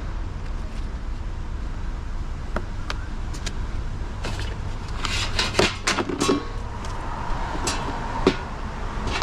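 Clicks and clanks of a power cord being worked off a small scrapped steamer. A cluster of knocks comes about five to six and a half seconds in, and a few single knocks come near the end, over a low steady rumble.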